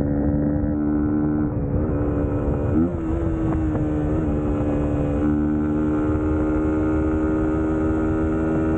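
Suzuki GSX-S150's single-cylinder four-stroke engine running at steady revs while riding, with brief dips and shifts in pitch between about one and a half and three seconds in, and again around four to five seconds, as the throttle is eased and picked up again.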